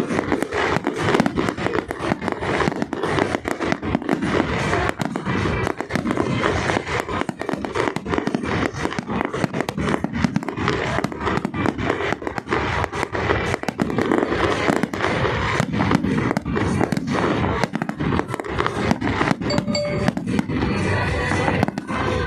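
A fireworks display: a dense, continuous barrage of bangs and crackling shell bursts. Music plays underneath.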